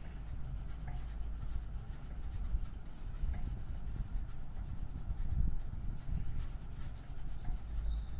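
A drawing tool rubbing back and forth on paper, steady and scratchy as the picture is coloured in.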